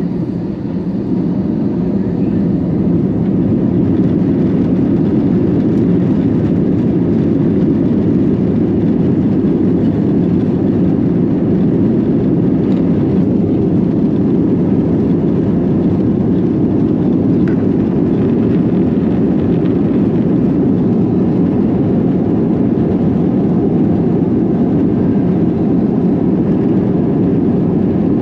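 Airbus A321 jet engines and airflow heard inside the passenger cabin: a loud, even rumble that grows over the first few seconds and then holds steady.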